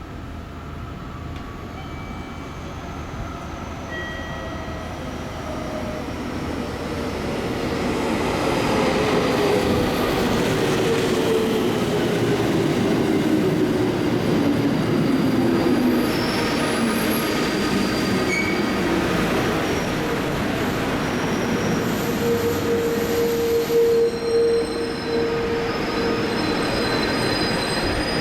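JR Central 313 series and 211 series electric multiple-unit local train arriving at a station and braking to a stop. It grows louder as it comes in, and a whine from the running gear falls steadily in pitch as the train slows. A steady high tone holds in the last few seconds as it halts.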